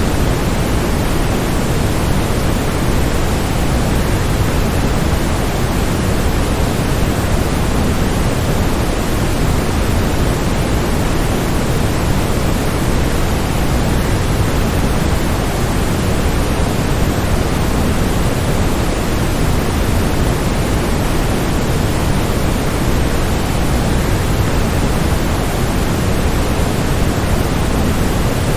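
Waterfall rushing steadily: a constant, even noise with no change, fullest in the low end.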